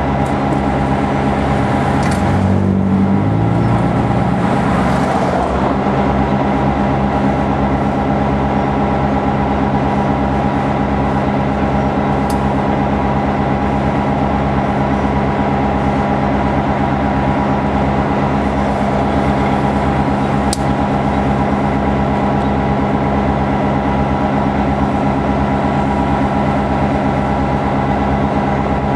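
Diesel locomotive engine running steadily close by, a constant low drone that holds its pitch throughout.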